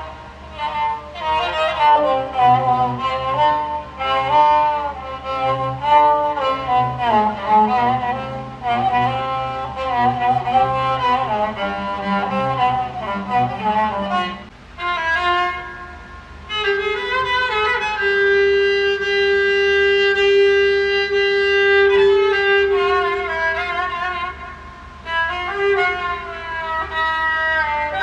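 Iraqi joza, a bowed spike fiddle, playing an ornamented melody of quick sliding notes over a low steady drone. About halfway through the melody pauses, then one long note is held for several seconds, and quicker phrases return near the end. The instrument is heard through modern sound effects.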